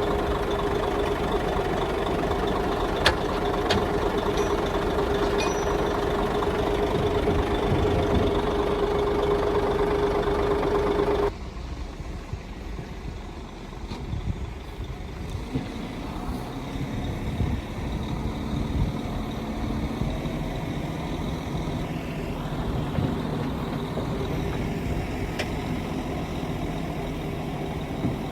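Diesel engines of heavy earthmoving machinery running steadily with a high whine, with a few sharp knocks. About eleven seconds in the sound cuts abruptly to a quieter, lower engine.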